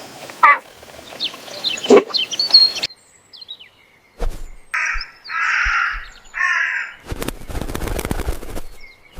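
A crow cawing three times, harsh calls in quick succession about five to seven seconds in, after a few short bird chirps at the start. A rough rushing noise follows near the end.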